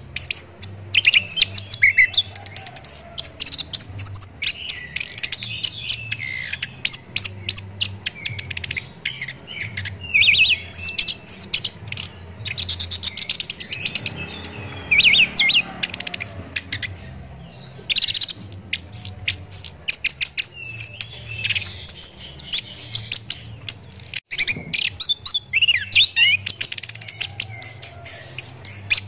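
Chestnut-capped thrush (anis kembang) singing a fast, varied song of chirps, trills and gliding whistled phrases, almost without a break, with one short pause a little past the middle.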